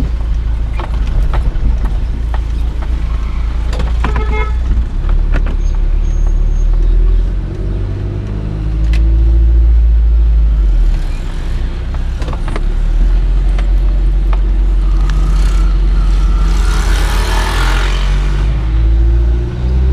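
Road vehicle noise: a steady low rumble with scattered knocks and rattles, a rushing hiss about sixteen seconds in, and an engine note rising and falling near the end.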